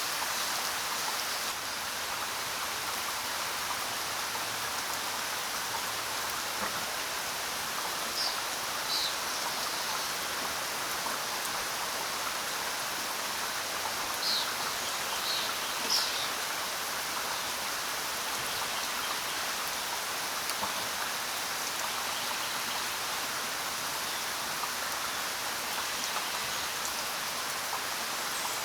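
Steady rainfall, an even hiss of falling rain. A few brief high bird chirps come through in the middle.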